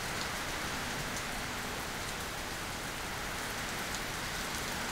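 Heavy tropical rain falling steadily, a dense even hiss of rain on surfaces with a few separate drops ticking through it.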